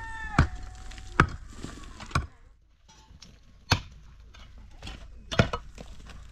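Sharp chopping strikes on wood, one at a time, about a second or two apart. A rooster's crow trails off in the first second.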